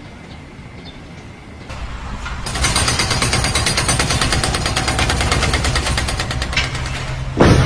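Loud, very fast mechanical rattle of evenly spaced strokes starting about two seconds in, then a sudden louder burst of noise near the end.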